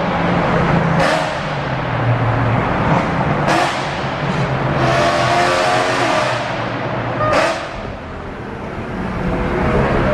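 BMW E92 M3's V8 with a very loud aftermarket exhaust revving hard several times, the engine note rising and falling between sharp surges.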